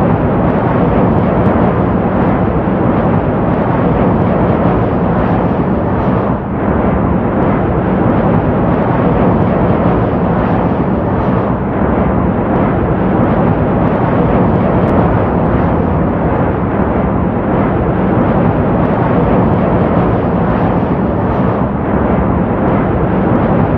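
Jet aircraft engine noise: a loud, steady rumble with a low hum, dipping briefly once about six seconds in.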